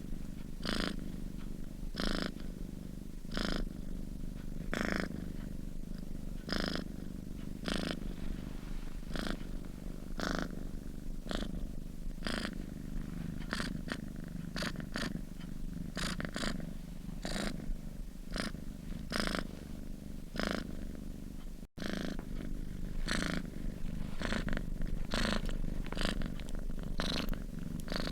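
Domestic cat purring steadily while asleep: a continuous low rumble that swells about every second and a half with each breath in and out. It cuts out for an instant about two-thirds of the way through.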